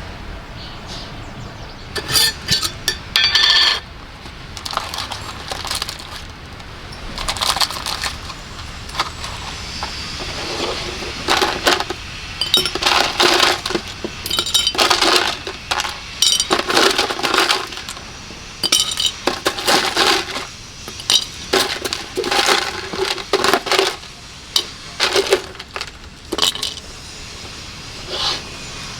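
Irregular clinking and clattering of hard objects being handled, in short bursts, over a faint steady background.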